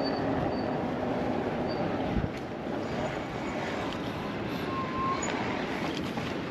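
Steady rush of wind over a chest-mounted camera microphone while riding an electric bike, with tyre noise on the pavement and a brief low bump about two seconds in.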